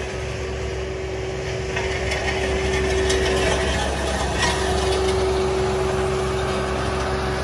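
Asphalt paving machinery running steadily with a held whine, and scraping or rubbing sounds over it.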